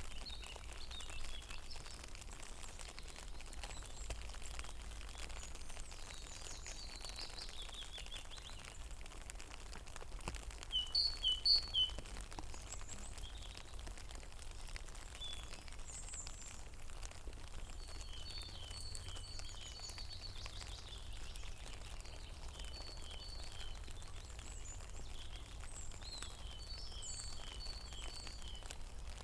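Light rain pattering on a pond, with small birds chirping in short repeated phrases; the loudest burst of chirps comes about eleven seconds in.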